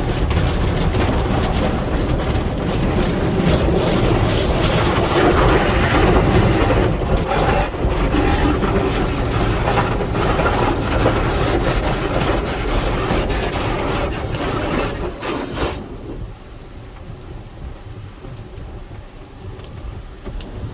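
Automatic car wash working over the car, heard from inside the cabin: a loud, dense rush of water and washing with rapid slaps on the body. About sixteen seconds in it drops off abruptly to a quieter steady rumble.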